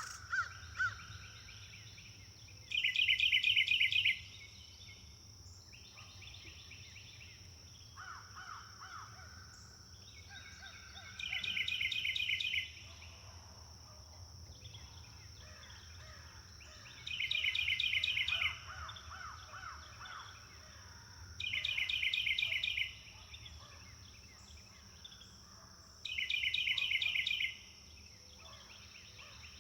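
Wild birds calling: a loud, rapid chattering call about a second and a half long comes five times, every four to six seconds, with quieter calls from other birds in between, over a steady high hiss.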